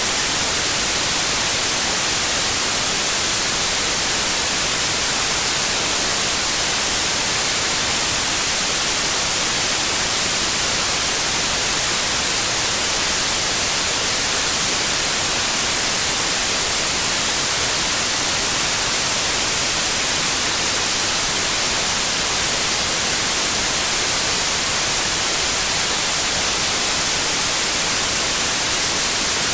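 Steady synthetic white noise: an even, unchanging hiss, strongest in the high frequencies, with no sudden sounds or changes in volume.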